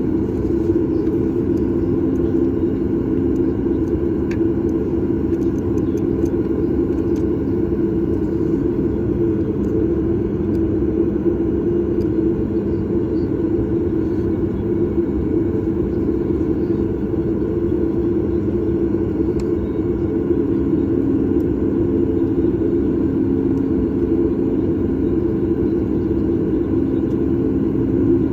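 Steady cabin rumble inside a Boeing 737 MAX 8 with its CFM LEAP-1B engines running at low, even thrust, a constant hum with no rise in pitch.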